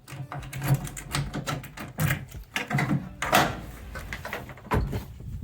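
Irregular knocks, clicks and metal rattles from a 2001 Nissan Frontier's tailgate being handled, with a heavier thump a little before the end.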